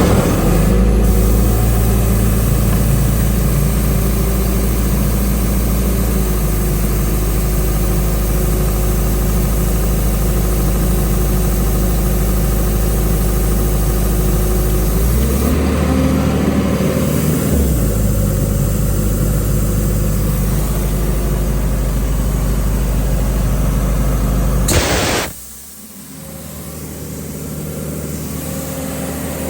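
Doosan 375 cfm portable air compressor's John Deere 4045 diesel engine running steadily, its note shifting briefly about halfway through. Near the end a short sharp burst cuts across it, and the sound drops to a much quieter level before slowly rising again.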